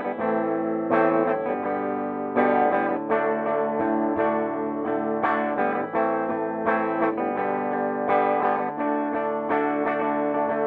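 Electric guitar played through a Peavey Bandit 112 combo amp (TransTube circuitry, 12-inch Blue Marvel speaker) on its clean channel in classic mode, plugged into the high-gain input. Picked single notes and chords ring out one after another.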